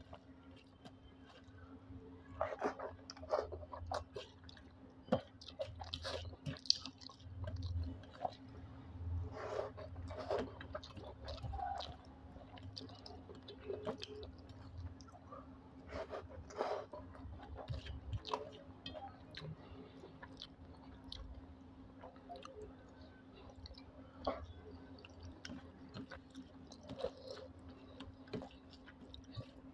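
Chewing and mouth sounds of a man eating rice with egg curry by hand, in irregular bursts, mixed with soft sounds of his fingers working the rice on a steel plate. A faint steady hum runs underneath.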